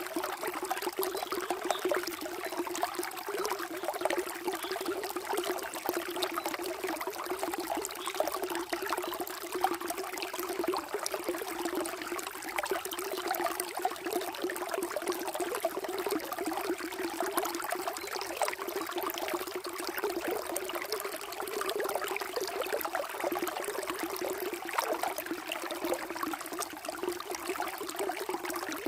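Water flowing and trickling steadily, a continuous splashing babble without pauses.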